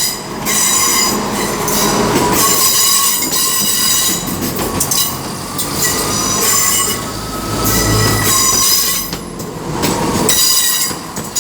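Passenger train wheels squealing against the rails as a multiple-unit train moves through the station. The high-pitched screech comes and goes in waves, and a low rumble swells for a couple of seconds around eight seconds in.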